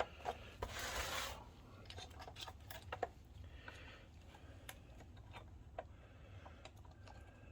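Faint clicks and rubbing of small parts as a projector's color wheel assembly is worked back into its seat by hand, with a short rustle about a second in.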